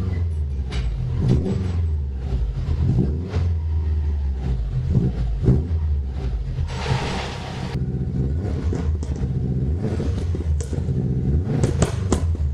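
2006 Subaru WRX's EJ25 flat-four engine idling steadily, heard through an exhaust fitted with a cut-out valve, with a low rumble and light irregular pops. A brief hiss comes about seven seconds in.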